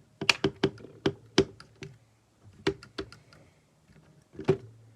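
LEGO bricks clicking and snapping as pieces are pulled off a model truck: a quick run of sharp plastic clicks in the first second and a half, then a few scattered clicks, one of them strong about four and a half seconds in.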